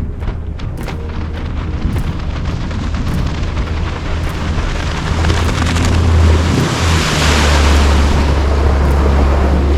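Gheenoe LT10 boat under way: a steady low drone with wind buffeting the microphone and water rushing, the rush growing louder from about five seconds in.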